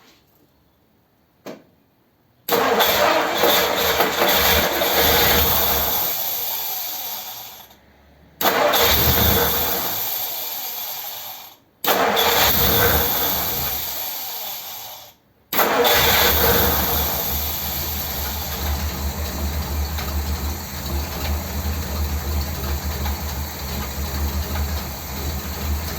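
The 1957 Ford Thunderbird's V8 being cranked on the starter motor in four bursts, the last one about ten seconds long, to refill the carburettor's float bowl.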